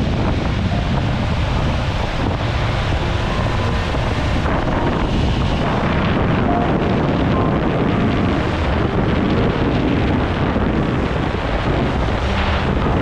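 Wind buffeting the microphone over rushing water, as on a small electric jet boat running on open water; a steady, loud rumble with no change in level.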